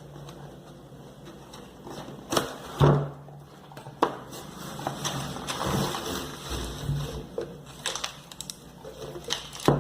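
Unpacking noise: packaging crinkling and rustling, with several sharp knocks as the boxed muffler is handled.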